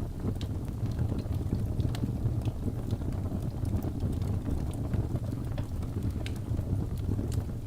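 Wood logs burning in a fireplace: a steady low rumble of the flames with scattered sharp crackles and pops at irregular moments.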